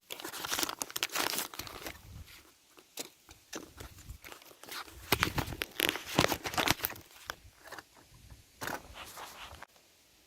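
Irregular rustling, crinkling and tearing, with scattered sharp crackles, as material is handled by hand.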